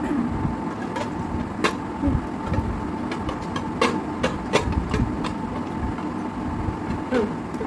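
Scattered light clicks and taps of dishes over a steady low hum.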